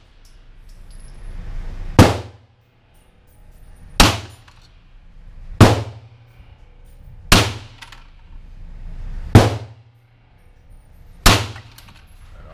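Rifle shots fired one at a time, six of them, every one and a half to two seconds, each echoing briefly off the concrete of an indoor range.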